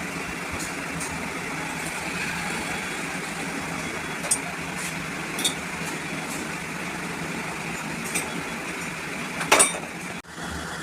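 Steady mechanical background noise with a few short, sharp clicks or taps: a few about halfway through and a louder pair near the end.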